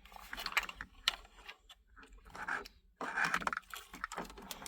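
Cables and plastic plug connectors being handled and pushed into the back of an aftermarket car stereo head unit: scattered sharp clicks and rustling of wiring.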